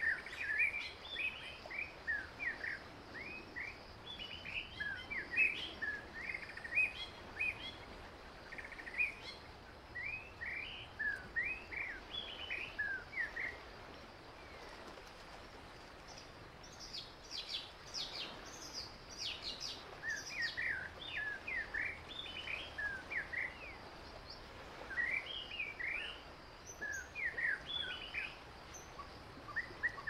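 Wild songbirds chirping: many short, quick calls sliding up and down in pitch, several birds in clusters throughout, with a run of higher, sharper notes around the middle. A faint steady outdoor hiss lies underneath.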